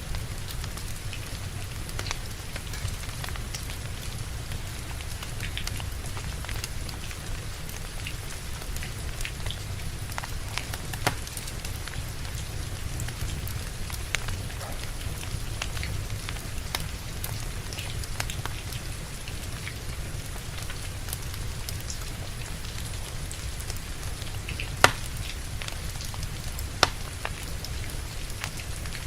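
Steady rain with a wood fire crackling through it: scattered small crackles, and two louder sharp pops from the burning logs near the end.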